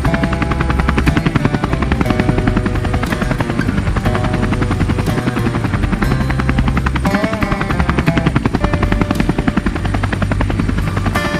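Helicopter rotor blades chopping rapidly and steadily, mixed with background music that has a changing bass line.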